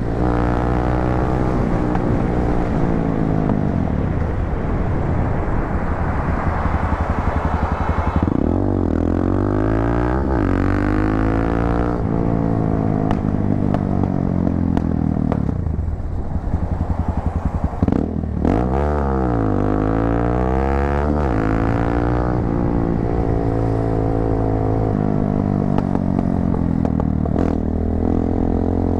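250cc motorcycle engine running through an aftermarket muffler while riding. The engine note dips and climbs back up twice as the revs change.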